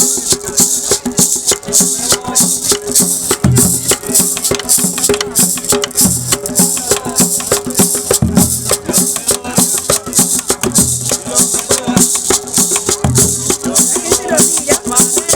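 Cumbia-style dance music from a Colombian sonora group, driven by a fast, steady shaker rhythm over a held mid-range tone, with bass notes every couple of seconds.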